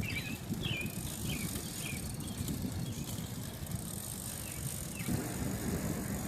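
A bicycle being ridden, with a steady low rumble of tyres and movement and a few short, high, falling chirps in the first two seconds.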